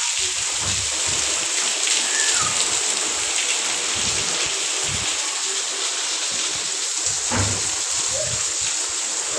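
Heavy rain falling steadily, a constant hiss, with scattered low thuds and one sharper knock about seven seconds in.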